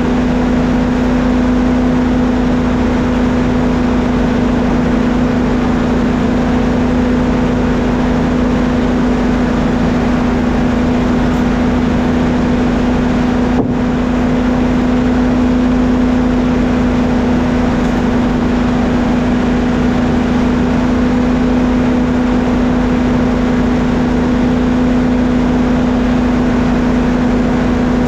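Sawmill machinery running steadily with a loud, constant hum, with one momentary break about halfway through.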